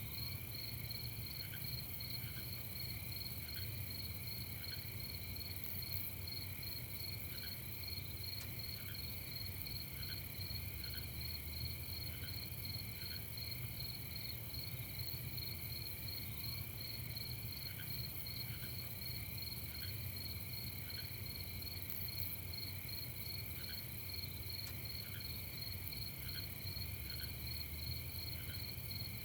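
Crickets chirping steadily in a night chorus, several overlapping at different pitches with a fast pulsing trill on top. Short lower notes come now and then in small clusters over a faint steady low hum.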